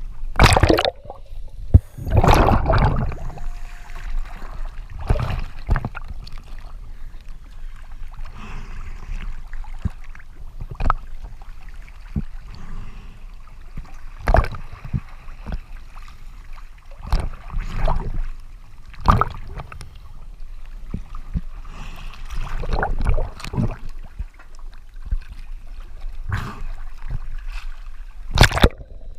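Water sloshing and bubbling around the diver, in irregular bursts every second or few over a low rumble.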